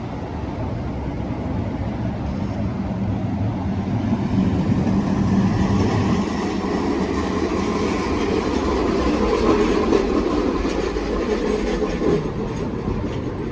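Manyosen tram running along its track, with a steady rumble of wheels on rail and running gear that grows louder in the middle and eases off near the end.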